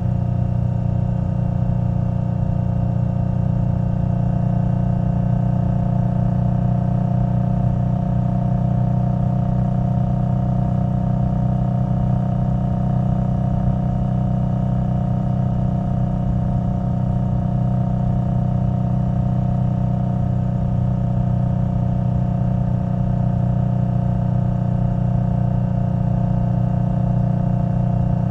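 Indian Scout Bobber Twenty's liquid-cooled V-twin, through V&H Twin Slash exhaust pipes, running at a steady cruising speed; the pitch holds the same throughout, with no shifting or revving.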